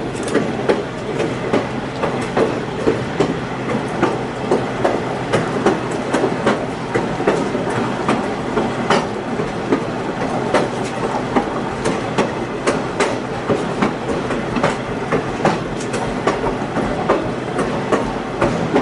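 Passenger train riding along the track: a steady rumble with irregular clicks and knocks as the car's wheels pass over the rail joints.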